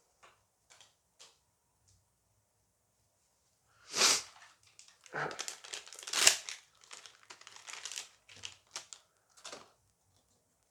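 Foil booster pack being crinkled and torn open, a run of crackles and rustles starting about four seconds in, loudest at the first tear and again around six seconds.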